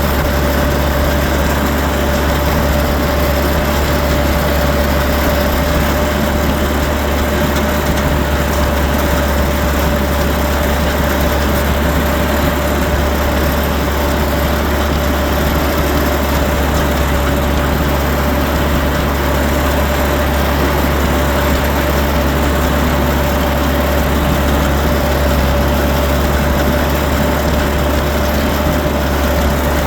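Tractor engine running at a constant speed: a steady, unchanging drone with a thin steady whine above it.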